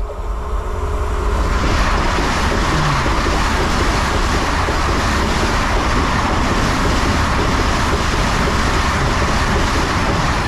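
Vande Bharat Express electric multiple-unit train passing at high speed: a loud rush of wheels and air that swells over the first second and a half, then holds steady.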